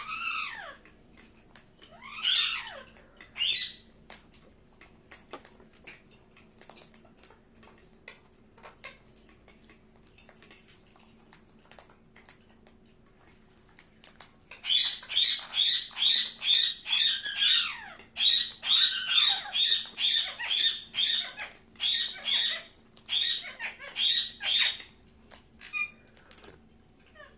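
Parakeet calling: a few falling calls in the first seconds, then scattered soft clicks. About halfway in, a long run of loud, rapid squawks starts, two or three a second, and lasts about ten seconds.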